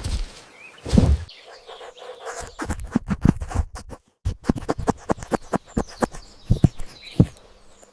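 A quick run of sharp knocks and thuds, with faint chirps above them.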